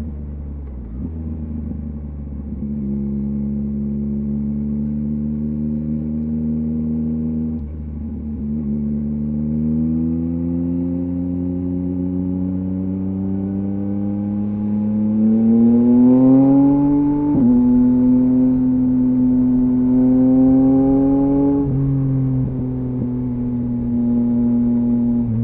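2023 Yamaha MT-09's three-cylinder engine through a LeoVince LV Race exhaust, riding at moderate revs with short breaks in the tone at gear changes. About halfway through it pulls harder, its pitch rising to its loudest before dropping at a shift, then settles into steady cruising.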